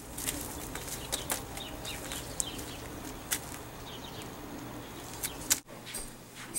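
Birds chirping in short calls over a steady low hum, with a few sharp taps or clicks. The sound cuts off abruptly about five and a half seconds in, giving way to quieter room tone.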